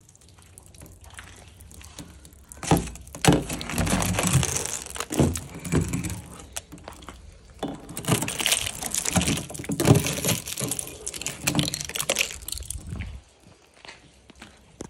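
Footsteps crunching through snow: irregular crunches with a low rumble on the microphone, starting about three seconds in and stopping abruptly near the end.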